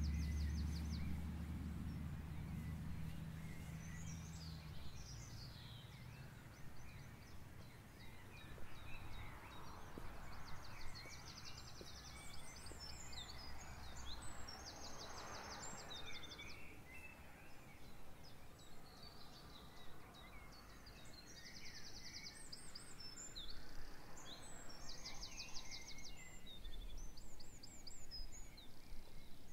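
Songbirds singing outdoors: a rapid, high trill repeated every few seconds, with scattered chirps and short calls between. A low hum fades out over the first few seconds.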